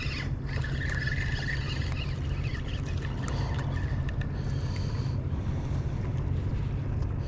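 Boat motor running at a steady low hum, under wind and water noise.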